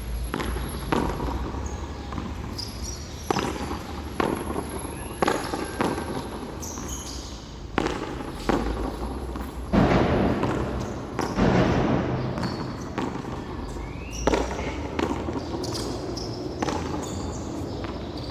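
Frontón handball rally: a rubber ball slapped by bare hands and smacking off the wall and floor, a sharp clap or thud about once a second.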